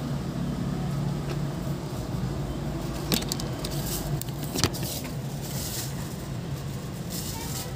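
Car engine running at low speed, heard from inside the cabin as a steady low hum. Two sharp clicks come about three seconds and four and a half seconds in.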